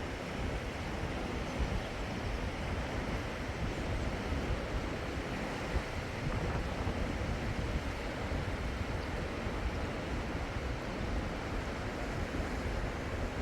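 Steady rushing of river water, with wind buffeting the microphone as a fluttering low rumble.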